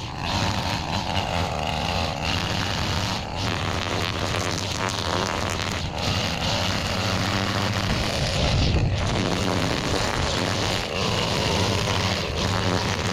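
Small engine of a gas-powered lawn tool running steadily, with the whirr of it cutting or clearing weeds.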